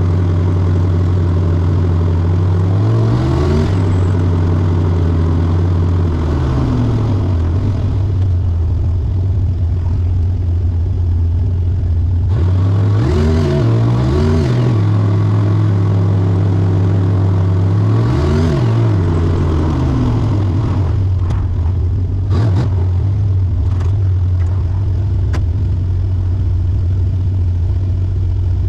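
A car engine idling steadily, its throttle blipped several times so that the revs rise and fall. A few sharp clicks come about three quarters of the way through.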